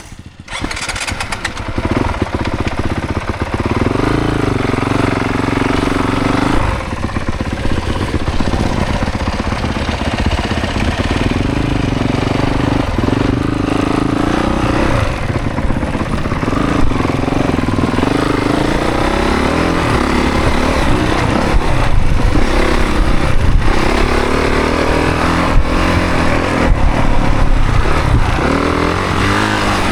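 Dirt bike's 450cc single-cylinder four-stroke engine (a 2024 Honda CRF450) under way on a trail, its pitch repeatedly rising and falling with throttle and gear changes, with scattered knocks over rough ground.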